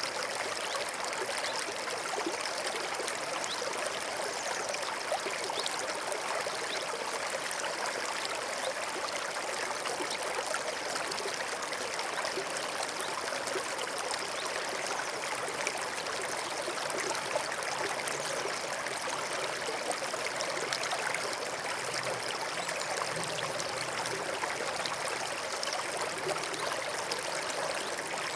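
Small forest stream flowing and babbling over stones, a steady even rush of water with fine trickling detail.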